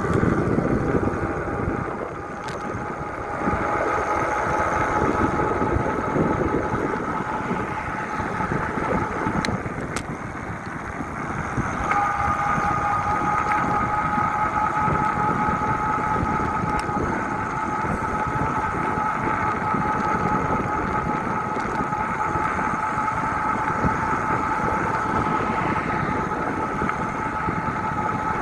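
Wind rushing over the microphone of a moving bike, with a steady two-note whine that fades about ten seconds in and comes back stronger a couple of seconds later.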